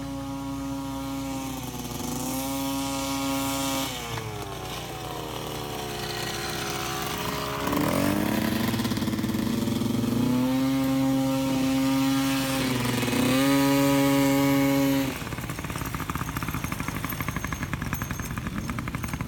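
Dirt bike engine running under throttle, its pitch climbing, sagging and stepping up and down. It is loudest about three quarters of the way through, then drops suddenly to a slower, pulsing running.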